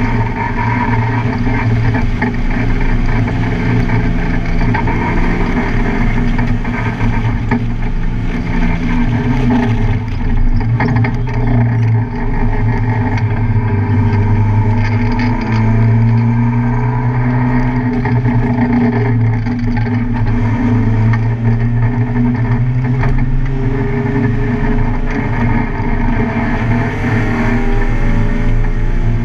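Car engine running hard on a race track, its pitch rising and falling as it accelerates and eases off.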